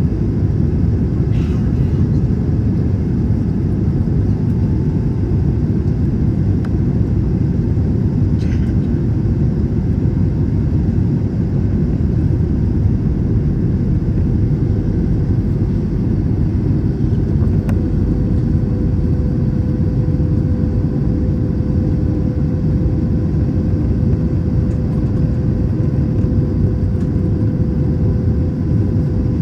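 Steady rumble of an Airbus A321 cabin in flight, from the jet engines and the airflow over the fuselage, with a steady hum that strengthens about halfway through.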